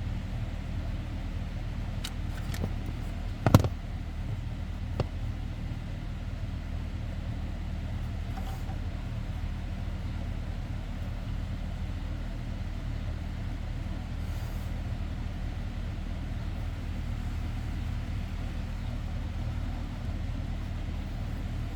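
Steady low mechanical hum with a few sharp clicks and one louder knock about three and a half seconds in, like hand work on parts.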